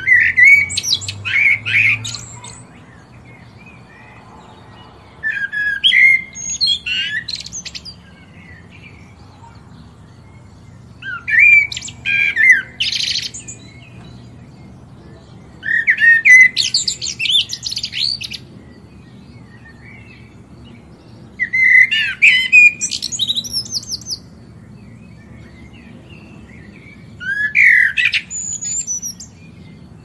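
A bird singing six short, bright phrases of quick gliding and chirping notes, each lasting two to three seconds, about every five and a half seconds.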